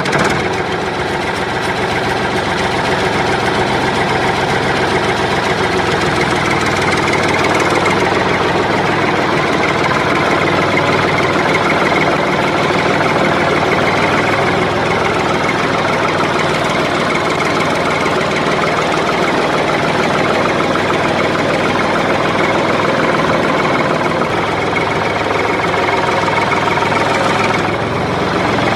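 A small motor running steadily with a rattling, engine-like knock, starting abruptly: the mini tractor's drive, or a tractor engine sound laid over it.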